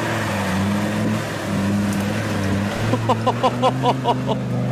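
Land Rover Defender's engine running steadily under load as it crawls through thick, slippery mud, picking up slightly about three seconds in. Near the end comes a quick run of about eight short high squeaks.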